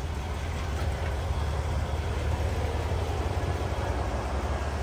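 Steady low rumble with an even hiss: outdoor background noise with no distinct event.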